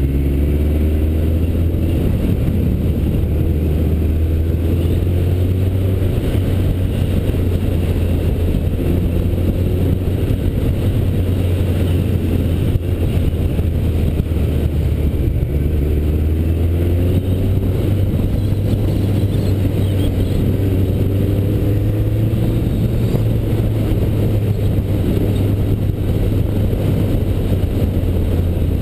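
BMW K1200 motorcycle's inline four-cylinder engine running under way, with steady wind and road noise. Its pitch climbs a few times as the bike accelerates.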